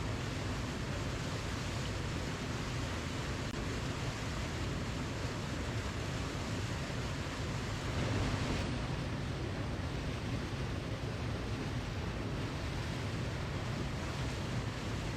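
Waterfall rushing in a steady, even roar of falling water, heaviest in the low end, swelling slightly about eight seconds in.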